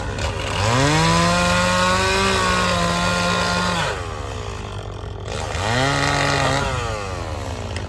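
Stihl chainsaw revved up to full throttle twice, first for about three seconds, then again more briefly a couple of seconds later, its pitch falling away after each, over a steady low engine drone.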